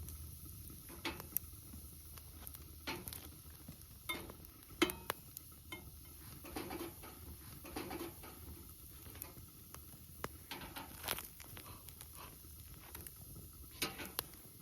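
Campfire crackling under mochi rice cakes grilling at its edge, with scattered light clicks, pops and knocks at irregular intervals.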